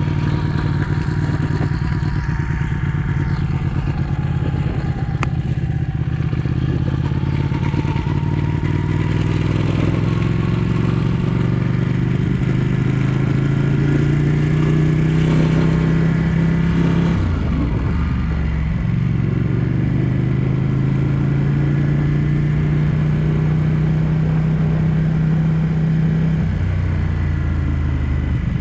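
Ducati 1199 S Panigale's Superquadro L-twin engine under way, its pitch climbing slowly as the bike pulls. About two-thirds through, the pitch drops sharply and then climbs again, with another step down near the end.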